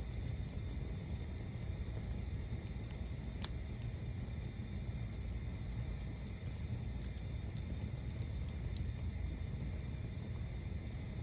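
Stacked-log bonfire burning, with scattered sharp crackles and pops over a steady low rumble.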